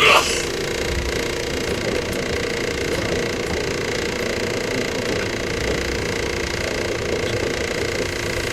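Interior sound of a JR 115-series electric multiple unit, heard from its motor car: a steady mechanical hum with constant pitched tones. Right at the start, a brief, loud sound sweeps down in pitch.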